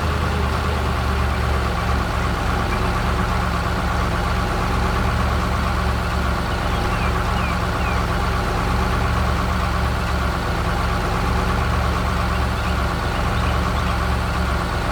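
Heavy vehicle engine running steadily at a constant low pitch, starting abruptly and cutting off suddenly at the end.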